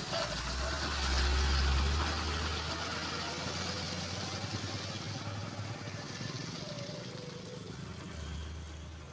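Heavy diesel truck engine rumbling low. It is loudest about a second in, then fades steadily as the truck moves away, with a smaller rise again near the end.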